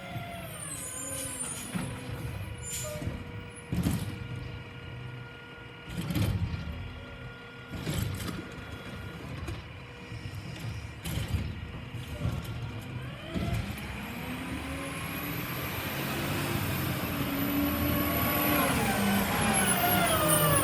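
Recycling truck's engine running, with several short, sharp air-brake hisses in the first half; the engine grows louder over the last several seconds.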